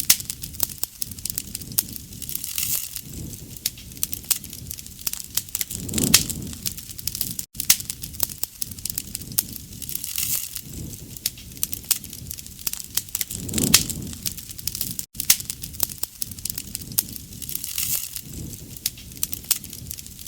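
Wood fire (bonfire) crackling and popping steadily, with a low rush of flame swelling every few seconds.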